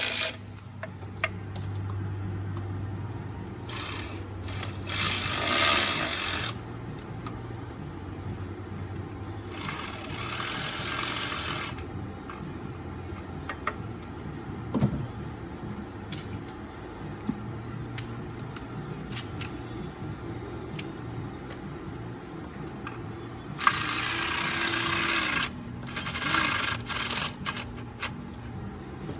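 A cordless power ratchet spinning bolts in, in short whirring bursts: three runs of a couple of seconds each, then quick stop-start pulls near the end. The water pump bolts are being run in and set snug, not yet torqued.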